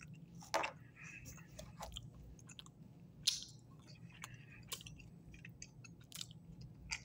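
A person chewing soft, sugar-coated sour gummy candy (Sour Patch Kids) with the mouth close to the microphone. The chewing comes as faint, scattered wet clicks and smacks.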